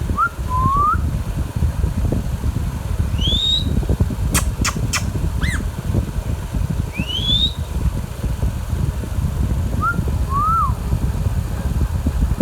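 Indian ringneck parakeet giving short rising whistled calls a few seconds apart, with three sharp clicks about halfway through, over a steady low rumble.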